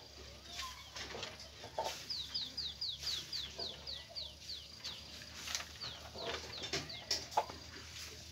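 Birds calling: a run of short, high, falling chirps, about three a second, through the middle, among scattered shorter, lower calls.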